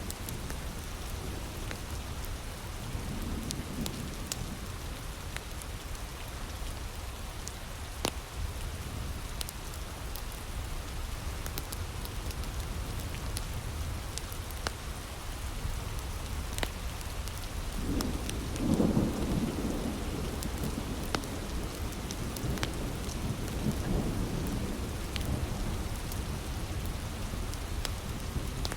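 Heavy rain falling steadily, with scattered sharp pops from a crackling wood fire. Low rolls of thunder swell in, a faint one early and the loudest about two-thirds of the way through.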